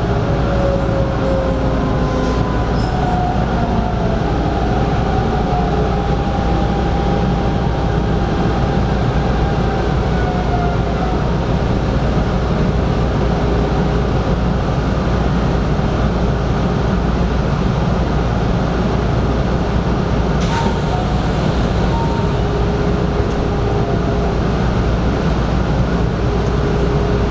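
Hanshin 5500-series electric train running along the track: a steady rumble of wheels on rail, with faint motor tones gliding in pitch during the first ten seconds or so.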